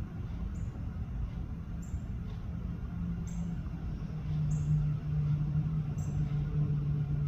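Bird giving five short, high, slightly falling chirps, about one every second and a half, over a steady low hum that grows louder about four seconds in.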